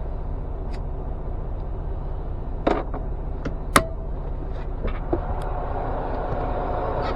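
Steady low rumble of a semi truck's engine heard in the cab, with a few sharp clicks and knocks around three to four seconds in.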